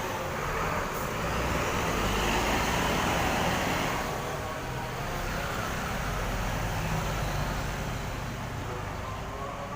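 Diesel engine of a large intercity coach pulling away, mixed with steady traffic noise. The sound swells a second or two in, then slowly eases off.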